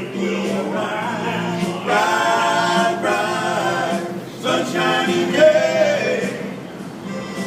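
A group of busking singers singing a cappella in harmony, in two phrases with a short break about four and a half seconds in, over a steady low hum.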